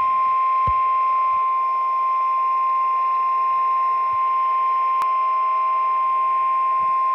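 NOAA Weather Radio warning alarm tone: a single steady 1050 Hz tone over radio static hiss, sounded to announce a severe thunderstorm warning.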